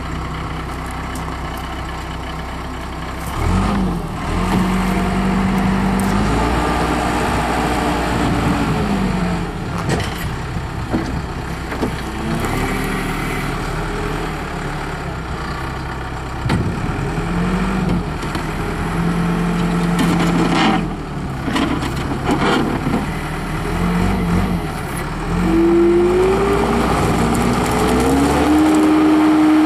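Case 450 skid steer loader's turbocharged Cummins diesel running while the machine is operated, its note repeatedly rising and falling as it is loaded and revved, with a few knocks along the way. Near the end it rises to a higher, steady rev.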